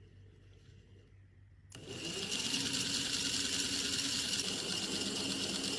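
A small model engine starts up suddenly and runs with a steady whirring whine.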